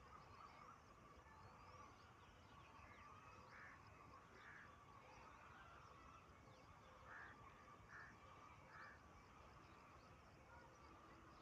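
Faint bird calls over a steady hiss: short calls repeated every second or so, with three evenly spaced calls in the second half and a few thin, falling chirps near the start.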